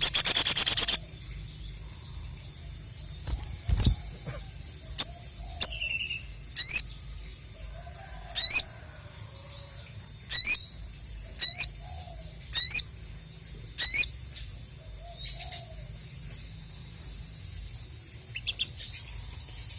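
Sogon (sogok ontong sunbird) singing: a loud burst of rapid, high chatter at the start, then a string of six sharp, very high sweeping notes a second or two apart over soft twittering.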